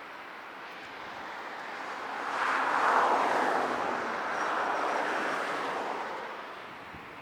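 Jet airliner passing, a noisy engine rush that swells to its loudest about three seconds in, holds, then fades away near the end.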